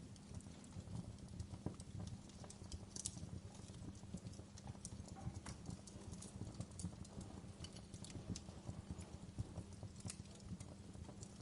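Wood fire in a fireplace crackling: irregular sharp pops and snaps over a low, steady rumble of the burning logs.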